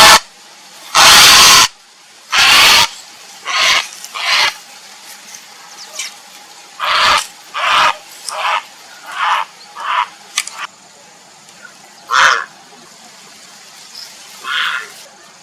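Grey heron giving harsh, croaking calls. Two long, loud ones come near the start, then a string of shorter, fainter ones at uneven gaps.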